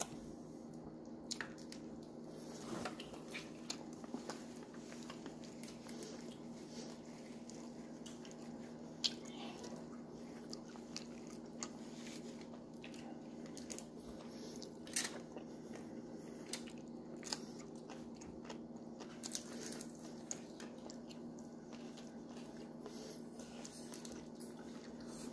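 Close eating sounds: chewing and small crunches, with scattered sharp clicks over a steady low electrical hum.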